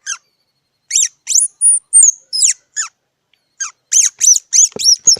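Squirrel giving a series of sharp, high-pitched squeaking chirps, each sweeping quickly down in pitch: a single call at the start, a run from about one to three seconds in, then a faster run near the end. Two short knocks come near the end.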